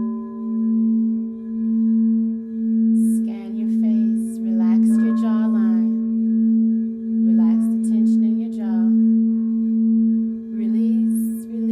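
Singing bowl sounding one sustained low tone that swells and fades about once a second, with fainter higher tones ringing above it.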